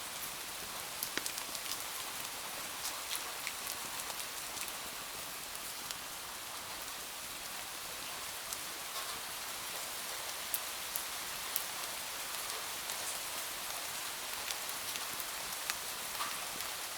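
Steady rain: an even, high hiss with scattered sharp ticks throughout.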